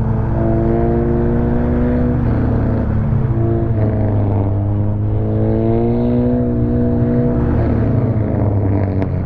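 Honda Civic FC's exhaust note, the engine running steadily with its pitch drifting gently up and down a few times.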